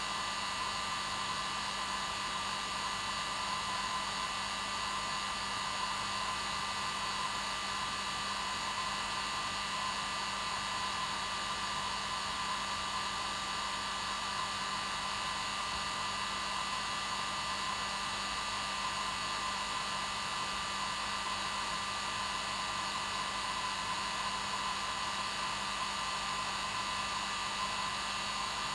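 Electric hair dryer running steadily: an even hiss of blown air over the motor's steady hum, unchanging throughout.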